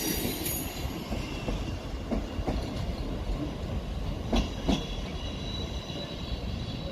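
Train wheels rumbling on the track with a faint high wheel squeal and a few sharp clicks over rail joints, two of them louder a little past the middle.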